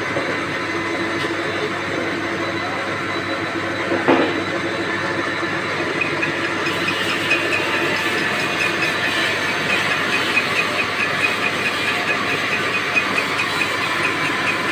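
C6127A metal lathe running with a steady hissing whirr. A short knock comes about four seconds in, and a fast, even ticking joins about six seconds in.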